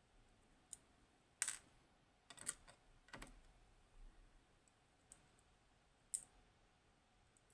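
Scattered sharp metal clicks and taps from the parts of a Hori Trident lock being handled as it is taken apart. There are about six clicks over a faint background, the loudest about a second and a half in.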